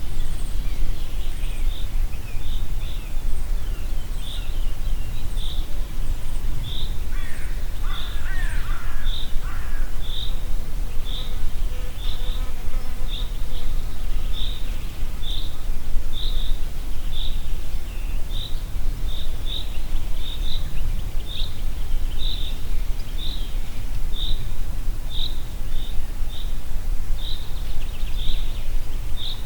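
Wind in a forest, heard as a steady low rumble, with a bird repeating a short high note about once a second. A brief twittering call from another bird comes about a quarter of the way in.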